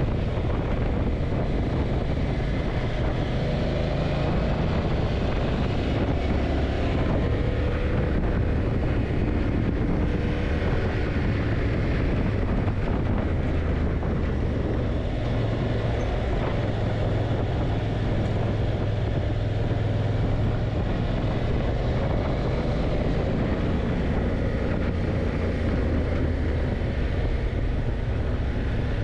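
Yamaha TDM900's parallel-twin engine running under way, its note rising and falling gently, with wind noise on the microphone.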